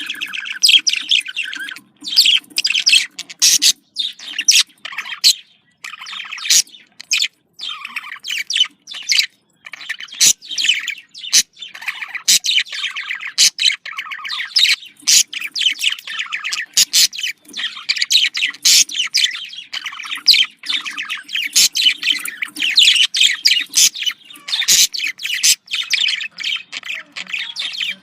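Budgerigars chattering and warbling: a fast, continuous run of short chirps, squeaks and clicks with brief pauses.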